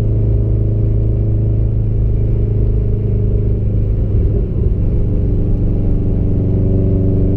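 Car engine running steadily at a gentle cruise, heard from inside the cabin with road rumble. Its note shifts about four seconds in, then settles again.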